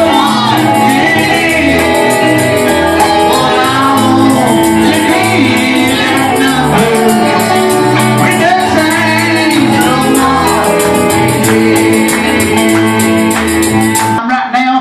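Gospel church music: voices singing over a bass line and a fast, steady shaken-percussion beat. It stops abruptly near the end.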